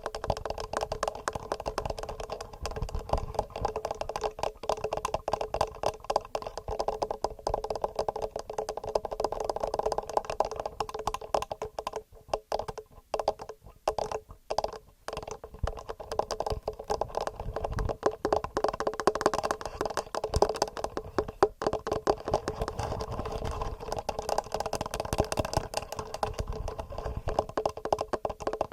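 Fingernails tapping rapidly and regularly on a TASCAM recorder's microphones: a dense stream of quick, clicky taps that thins to a few scattered taps with short pauses about halfway through.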